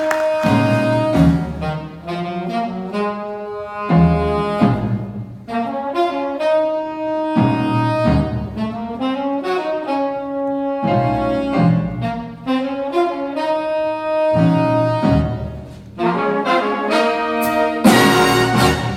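Jazz ensemble playing a minor blues: saxophones and brass sound long held notes in phrases over bass and drums, with a drum or cymbal accent at the start of each phrase.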